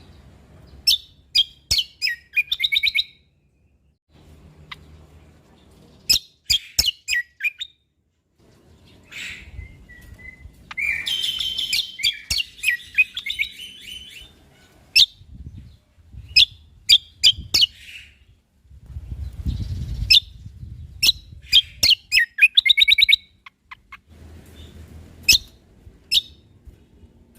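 Cucak kombo (kecial kombok) songbird singing in repeated phrases of rapid, sharp, high chirping notes with short pauses between them, and a denser trilling passage in the middle. A faint low rumble runs underneath.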